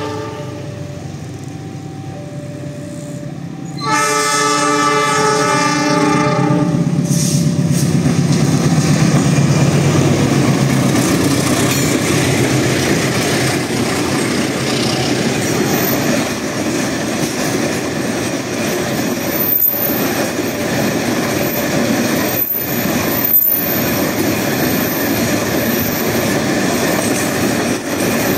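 A diesel locomotive's air horn sounds faintly at first, then blasts loudly about four seconds in for roughly three seconds. The locomotive's engine and a long train then roll past with a steady rush and clatter of wheels on rails.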